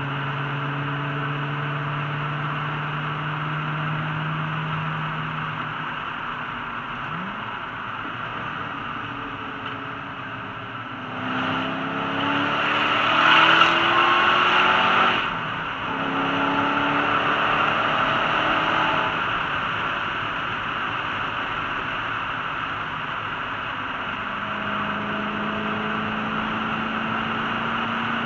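Ford GT's engine heard from inside the cabin while driving, a steady drone over tyre and wind noise. About eleven seconds in it pulls harder for roughly four seconds, its pitch rising as the car accelerates, then drops back suddenly and settles to cruising again.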